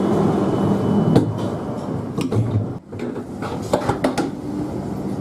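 Cabin noise inside an E5 series Shinkansen carriage, with several sharp knocks and clatter over a steady background.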